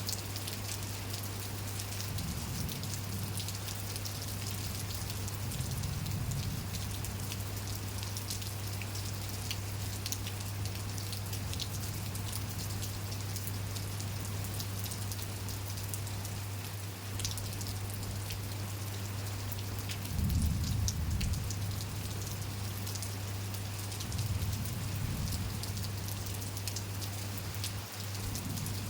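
Steady rain falling, with many separate drops ticking on surfaces close by. A steady low hum runs underneath, and a few brief low rumbles come and go.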